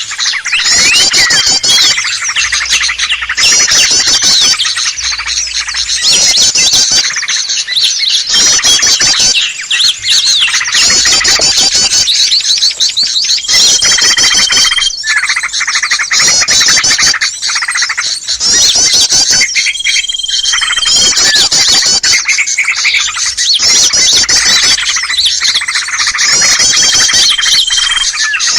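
Bird-lure recording for trapping small birds: a dense, loud chorus of rapid high chirps and chatter in quick bouts, with a short steady whistle that recurs about every six seconds.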